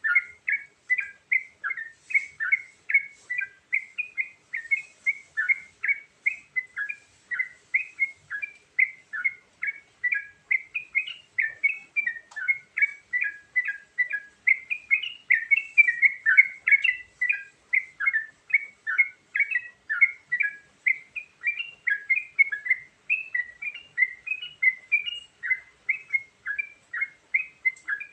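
Yellow-vented bulbul (trucukan) singing a varied song: a steady, fast run of short warbled notes, about three a second, with no break.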